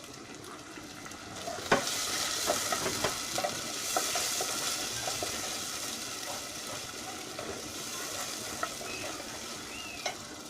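Ginger, cumin and garlic paste sizzling in hot oil in a pan as a little water is added, with a spoon scraping and tapping the pan while stirring. The sizzle swells about a second and a half in, then slowly dies down.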